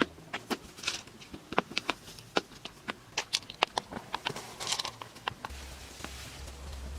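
Irregular sharp clicks and light taps, several a second, with a low steady hum coming in about two-thirds of the way through.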